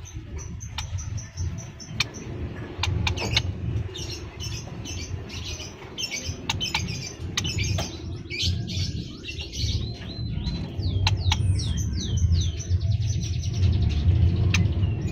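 Small birds, scaly-breasted munias, chirping with many short high notes, with a run of quick downward-sliding calls after about 11 seconds. Scattered sharp clicks and a steady low rumble lie under the calls.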